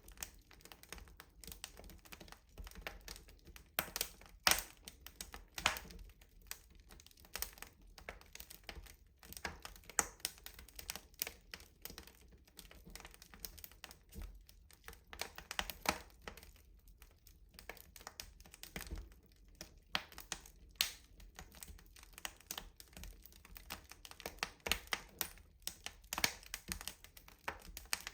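Wood fire crackling in a rustic stove: irregular sharp pops and snaps of burning wood, some louder than others, scattered throughout.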